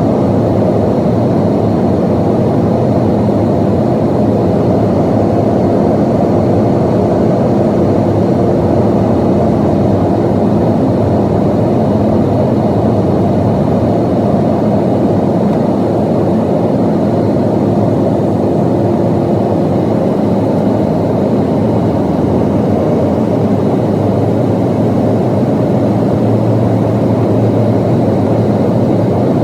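Steady cabin roar of a Boeing 737-800 in flight, heard from inside the cabin: engine and airflow noise from its CFM56-7B turbofans. A faint steady tone fades out about two-thirds of the way in, and a deeper hum rises near the end.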